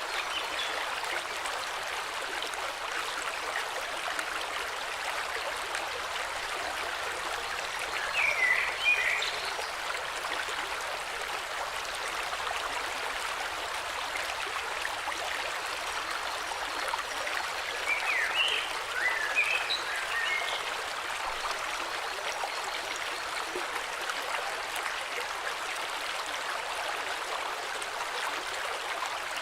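Flowing river, a steady rushing of water. Birds chirp briefly about eight seconds in and again in a cluster of calls around eighteen to twenty seconds.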